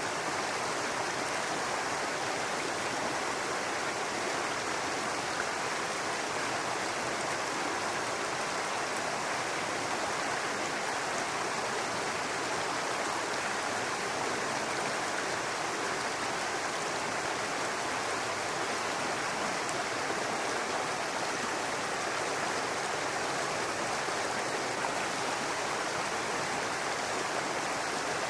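Babbling brook: shallow water running and splashing over stones in a steady rush.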